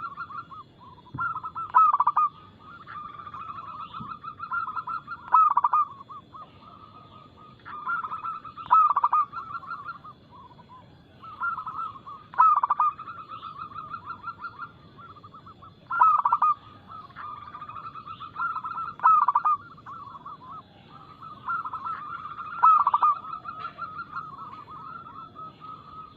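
Zebra dove (perkutut) singing its cooing song over and over, a phrase about every three to four seconds. Each phrase is a quick run of rolling notes that builds to louder accented coos.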